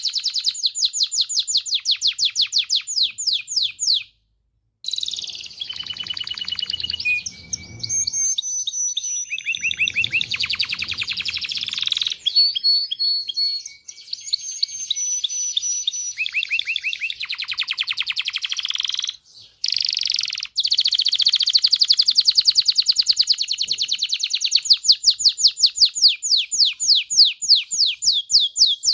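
Domestic canary singing: long phrases of fast repeated high notes, each phrase a different trill, with two brief breaks in the song.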